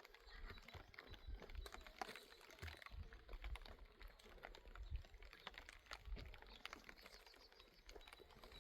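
Faint, scattered small clicks and taps at an uneven rate, with an intermittent low rumble underneath.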